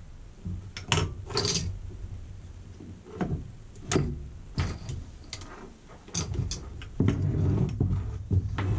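Irregular clicks, knocks and scrapes of hand tools and small metal parts as a Wabco air suspension compressor is taken apart by hand, busiest near the end.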